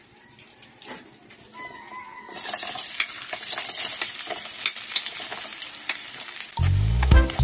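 Diced carrots dropped into hot oil in an aluminium wok, which starts sizzling about two seconds in and keeps frying with small crackles. Music with a heavy beat comes in near the end.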